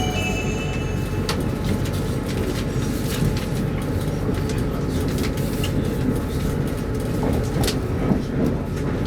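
Arlanda Express electric train running at speed, heard from inside the carriage: a steady rumble of wheels on rail with a few light clicks and knocks.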